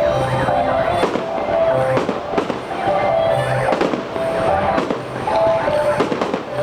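Aerial fireworks going off in repeated sharp bangs, about one or two a second, with music playing underneath.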